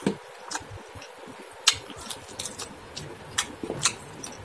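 Close-up eating sounds: chewing with a scattering of short wet smacks and clicks, as rice and chicken curry are mixed by hand and eaten.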